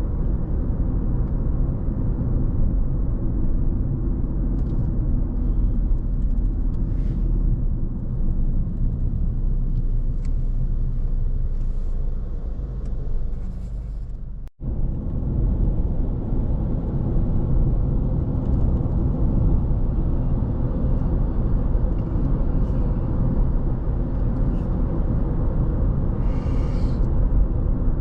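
Car driving at steady road speed: a continuous low rumble of tyre, road and engine noise. The sound cuts out for an instant about halfway through, and a brief higher sound comes through near the end.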